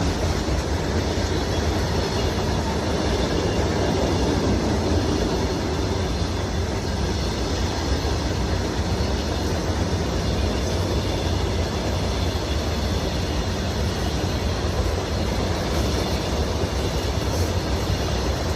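Freight train rolling along the rails: a steady, unbroken rumble of wheels on track.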